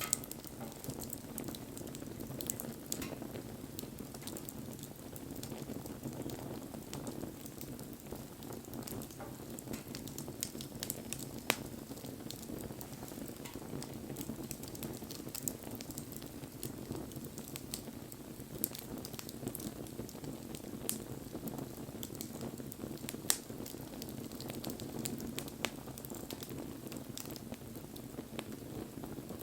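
Wood bonfire burning: a steady crackle and hiss of the flames with scattered sharp pops from the burning wood, the loudest about eleven and twenty-three seconds in.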